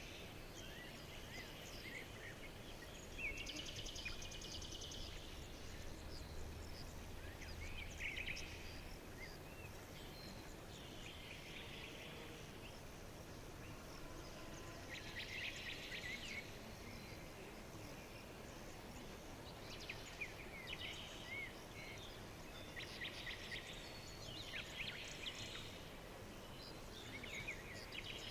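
Several small songbirds chirping and trilling on and off, short quick chirps between bursts of rapid trill, over a faint steady background hiss.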